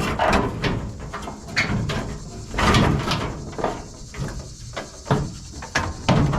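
Scrap metal pieces being handled and dropped into a pickup truck bed: an irregular series of clanks and knocks, several of them sharp and ringing.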